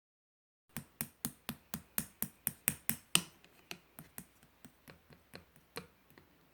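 Slime being pressed and poked, making a run of crisp clicking pops about four a second; the clicks start under a second in, are loudest for the first two seconds or so, then grow fainter.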